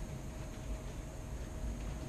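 O scale two-rail model train running on its track: a steady low rumble with faint clicks.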